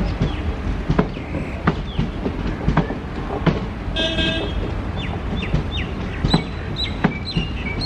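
Passenger coaches of an Indian Railways express rolling past, their wheels knocking over rail joints over a steady rumble. About four seconds in there is a brief horn toot, and near the end a few short high squeaks.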